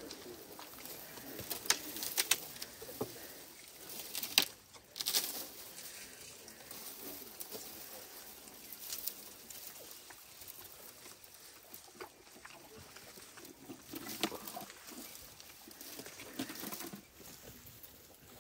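An elephant feeding on a branch: irregular sharp cracks and snaps of wood and bark over rustling, as it strips bark with its trunk and chews. The loudest snaps come in the first five seconds.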